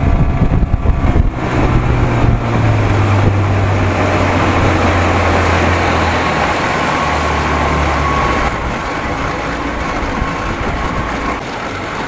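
55 hp Evinrude outboard motor running under way at speed, a steady engine drone mixed with wind and water rush. The engine note eases off about eight and a half seconds in.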